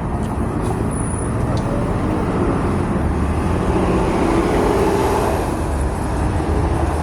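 Steady motor-vehicle rumble, low and continuous, swelling for a second or so about four seconds in and easing again, as of a vehicle passing.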